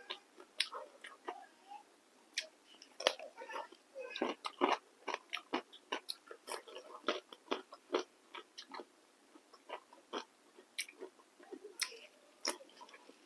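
Close-miked eating: crisp bites into slices of raw cucumber and chewing, an irregular run of crunches and mouth clicks, with another bite near the end.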